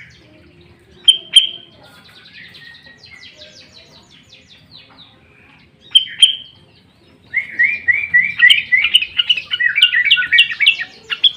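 Sooty-headed bulbul calling: a pair of sharp, loud call notes about a second in and another near six seconds, then, from about seven seconds on, a fast chattering run of short rising notes.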